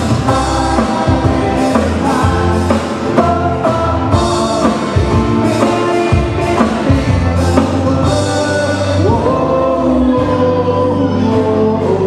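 A live band plays a Hawaiian-style song with sung vocals over a steady bass and beat.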